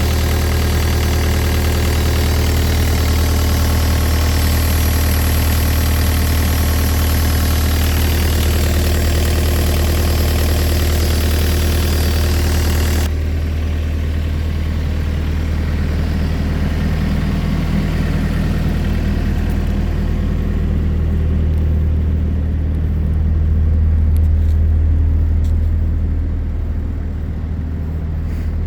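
An engine idling steadily with a low, even hum. About halfway through, the sound turns suddenly duller as the higher hiss drops away, while the idle carries on unchanged.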